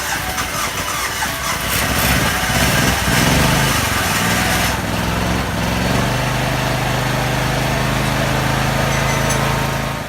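Small engine of a rice transplanter converted into a sprayer, running just after being jump-started from a flat battery. Its speed wavers at first, then settles into a steady idle about six seconds in.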